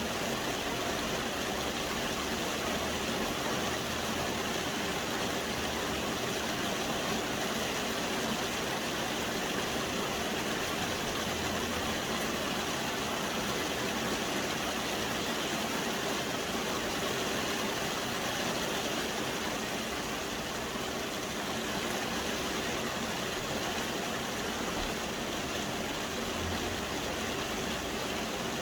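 Soft rain falling steadily, an even hiss with no change in strength.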